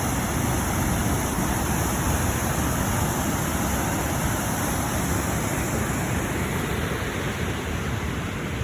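Waterfall's falling water rushing steadily, with a low unsteady rumble underneath.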